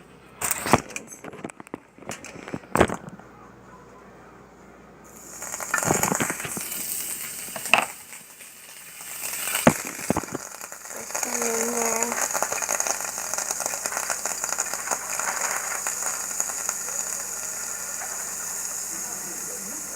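Frying pan sizzling as pancake cooking gets under way, with a few sharp knocks of a spoon or utensil against the pan in the first ten seconds. The sizzle turns into a steady high hiss from about eleven seconds in.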